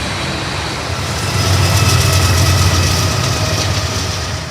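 Train passing on the tracks: a loud steady rumble of wheels and cars that swells about a third of the way in and eases off near the end.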